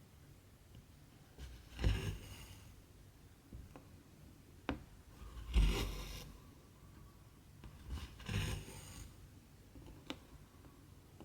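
Cotton embroidery thread drawn through cross-stitch fabric with a rasping swish, three times, each pull about half a second long. A few sharp small ticks fall between the pulls, from the needle at the fabric.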